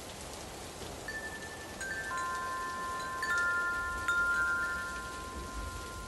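Wind chime rung several times from about a second in, its clear tones ringing on and overlapping, over a steady hiss of rain.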